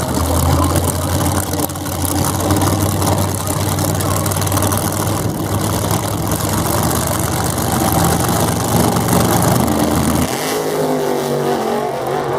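Drag-race car engine running loudly with a steady low rumble; about ten seconds in the low note drops away and the engine sound changes to a higher, wavering note.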